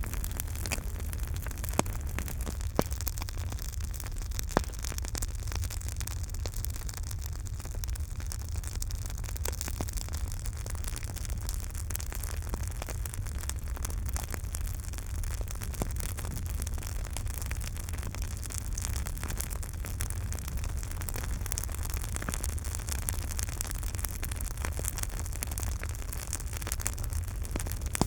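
Campfire crackling: a steady hiss and low rumble with many small pops, and three sharper cracks in the first five seconds.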